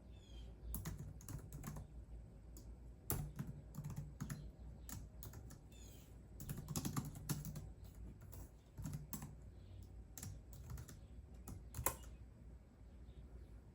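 Computer keyboard typing in uneven bursts of keystrokes, a few of them louder clacks. The typing stops about two seconds before the end.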